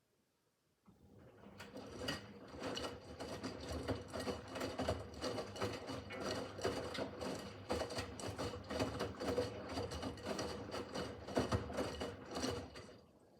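Miele W5801 WPS front-loading washing machine's drum turning during the wash, a steady motor hum under a dense clatter of tumbling laundry. It starts about a second in and stops shortly before the end as the drum pauses.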